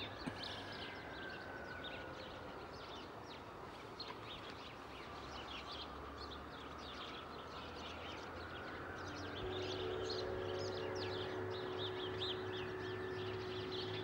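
Birds chirping and calling, many short overlapping calls throughout. Soft held music tones come in about two-thirds of the way through.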